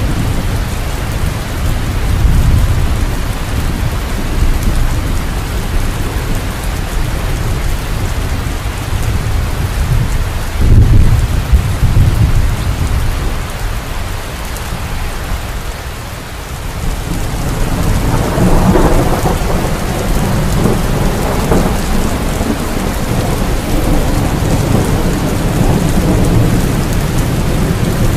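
Steady rain with rolling thunder: low rumbles swell up several times, strongest about eleven seconds in, and again from about eighteen seconds on.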